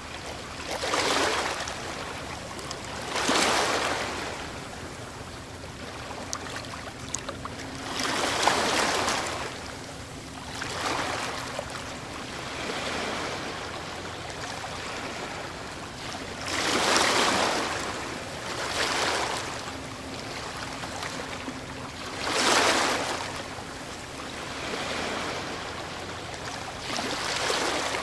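Ocean waves breaking on a shore: a steady wash of surf with a louder crash every few seconds, about seven in all, some coming in quick pairs.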